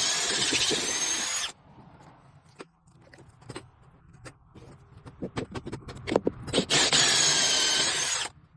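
Power drill spinning a PVC pipe reamer, cutting into PVC with a whining, rasping noise. It runs twice: the first run stops about a second and a half in, and the second starts near seven seconds and stops just before the end. Clicks and knocks of handling come in between.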